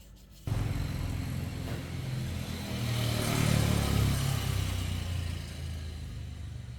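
SYM motorcycle engine running: it cuts in suddenly about half a second in, rises to a rev around the middle and eases back down.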